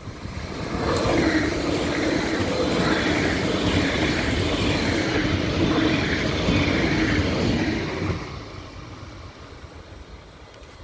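ICE 4 high-speed electric train passing close by: a loud rush of wheels on rail and air with a steady hum under it, swelling roughly once a second as the cars go by. It builds about a second in and drops away after about eight seconds as the train recedes.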